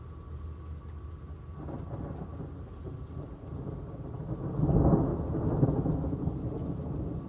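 Thunder rolling over steady rain: a rumble builds from about one and a half seconds in, is loudest around five seconds in, then rolls on and slowly eases. A steady low hum runs underneath.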